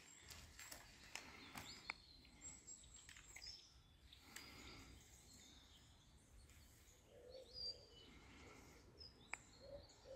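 Near silence, with faint bird chirps and short whistles scattered throughout and a few soft clicks.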